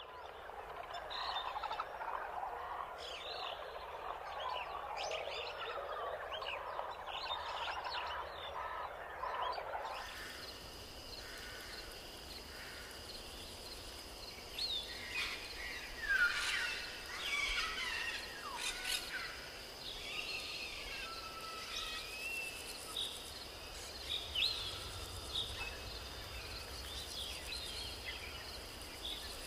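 Forest nature sounds: a dense frog chorus for about the first ten seconds, then an abrupt change to scattered bird calls, quick rising and falling chirps over a steady high drone.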